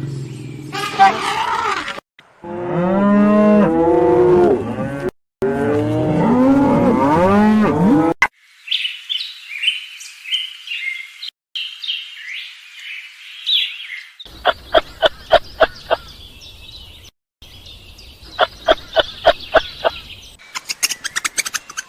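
Cattle mooing, several arching calls in two bursts, followed by high-pitched chirping calls. Then a series of short squeaks in quick rhythmic runs that speed up near the end.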